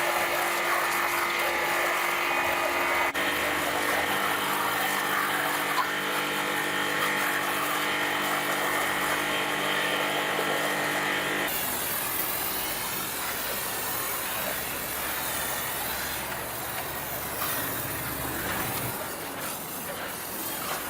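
A machine running at a steady pitch for about eleven seconds, then cutting off abruptly and giving way to a hissing noise.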